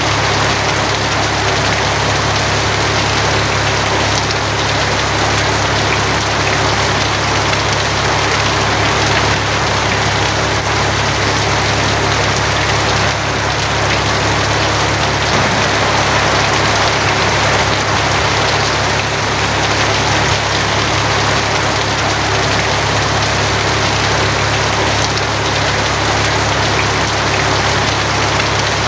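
Steady heavy rain drumming on a tin roof, an even dense patter with no thunder cracks or swells. A steady low hum runs underneath it.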